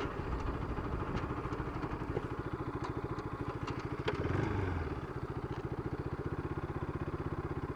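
Bajaj Pulsar RS200's single-cylinder engine running steadily at low revs, its separate exhaust pulses plainly heard, with a slight swell about four seconds in.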